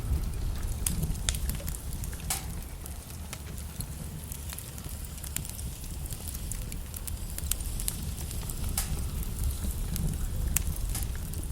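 Logs burning in a fireplace, crackling with irregular sharp pops and snaps over a low, steady rumble of the flames.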